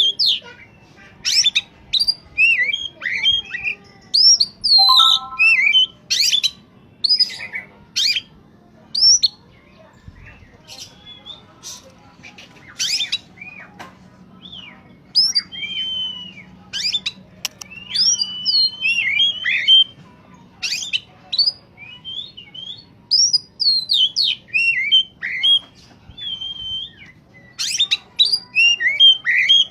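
Oriental magpie-robin (kacer) in full song: a rapid, varied run of whistled glides, chirps and sharp notes in bursts, with a short pause a little after two-thirds of the way through.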